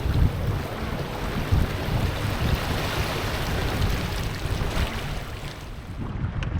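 Wind buffeting the microphone and water rushing along the hull of a small sailing boat under way, a steady rushing noise with gusty low rumbles.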